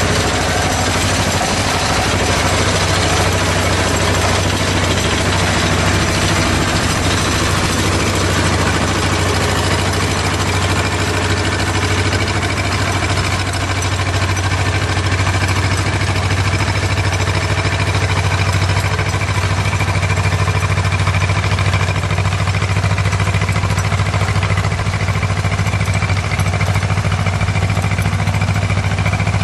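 Sugarcane combine harvester's engine running steadily under load, with a constant low hum and a dense mechanical rattle and rush above it.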